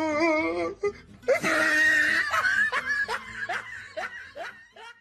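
People laughing: a wavering laugh at first, then a loud burst and a string of short, falling laugh pulses that fade out near the end.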